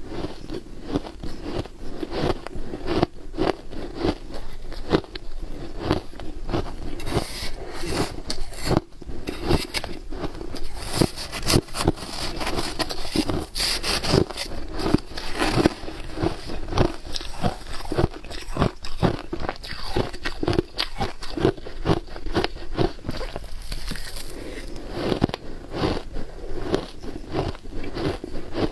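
Frozen ice being bitten and chewed: a steady run of irregular crackles and crunches, several a second.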